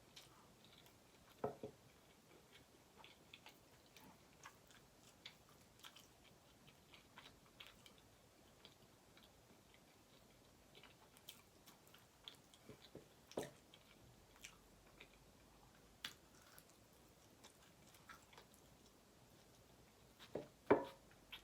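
Close-miked chewing: soft, wet mouth clicks and smacks go on throughout, with three louder bites or mouth sounds spread across, the loudest near the end.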